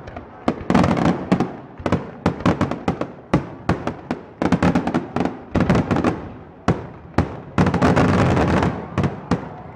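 Aerial firework shells bursting in quick succession, many sharp bangs a second with crackle between them and heavier clusters about a second in, midway and near the end: the closing barrage of a fireworks display.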